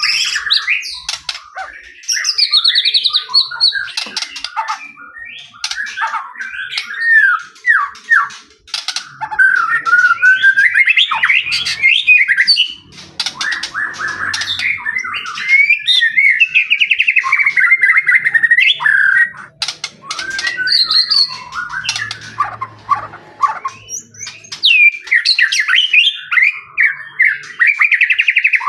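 White-rumped shama (murai batu) singing hard and almost without pause: a fast, ever-changing run of loud whistles, rapid trills and harsh notes. This is the full 'gacor' song that keepers play to provoke other shamas into answering.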